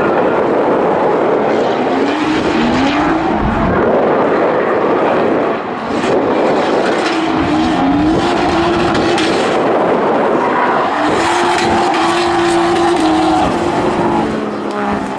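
Drift cars running in tandem, engines revving hard in repeated rising pulls that level off at high revs, over a constant haze of exhaust and tyre noise.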